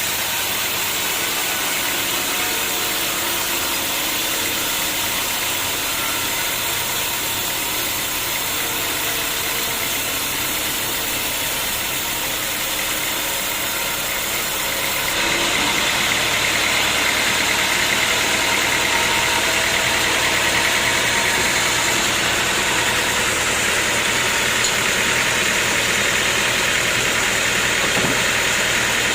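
Sawmill machinery running steadily with a dense, hissing mechanical noise, stepping up louder and brighter about halfway through.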